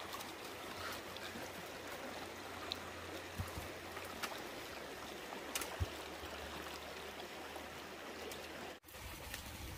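Water flowing steadily in a flooded stream, with a few faint knocks. The sound drops out for an instant near the end.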